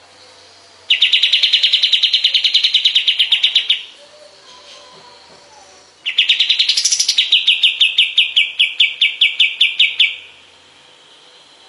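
Kapas tembak songbird singing fast trills of repeated sharp notes, about eight or nine a second, in two bouts of three to four seconds with a pause between. The second bout opens with a brief rising, higher note and its notes slow slightly.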